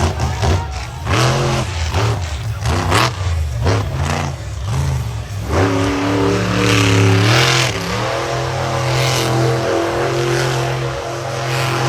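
Monster truck engine revving in short, sharp blips, then climbing hard about five and a half seconds in and holding at high revs.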